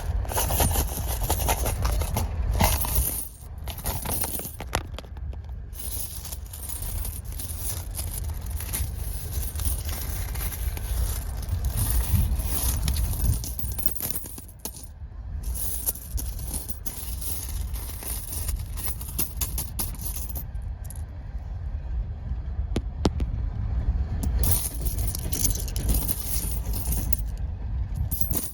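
Small objects being handled for ASMR triggers, with many short clicks and knocks, over the steady low rumble of a moving passenger train.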